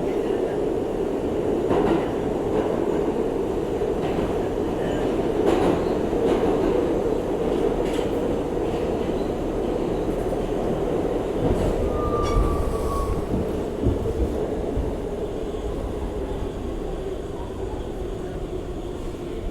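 R62A subway car running along the track: a steady rumble of wheels on rail with scattered clicks at rail joints. A brief, slightly falling wheel squeal comes about twelve seconds in.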